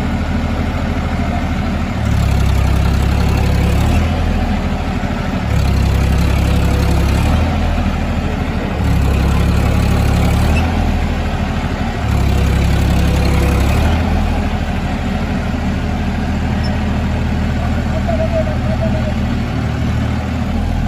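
Massey Ferguson 1035 tractor's three-cylinder diesel engine labouring under a heavy load, pulling a trolley full of soil out of a mine. The engine note swells louder four times, about two seconds each, then runs on steadily.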